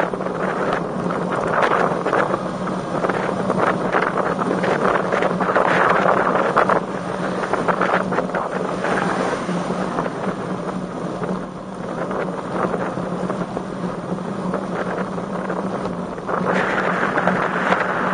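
Wind buffeting the microphone of a camera on a moving road bike, gusting louder and softer every few seconds over a steady low hum.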